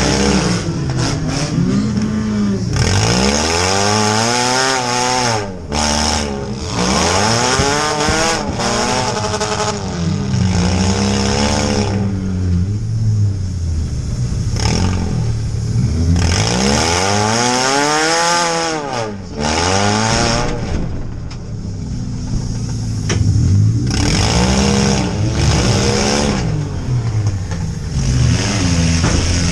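Compact demolition derby car's engine, heard from inside its stripped cabin, revving up and dropping back again and again, every few seconds, as the car is driven around the arena.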